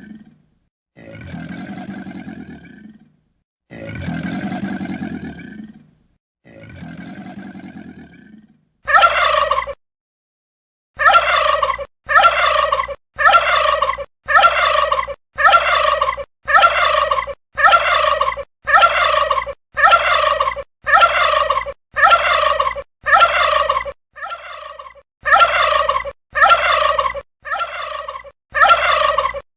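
A bird call, gobble-like with falling pitch, repeated about once a second in identical copies with abrupt cut-offs, like a looped sound effect. It follows four longer, rougher calls in the first part.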